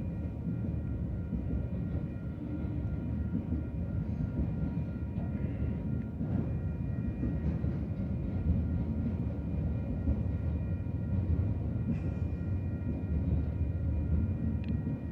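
Union Pacific freight train of autorack cars rolling past up close: a steady, continuous rumble of wheels on rail.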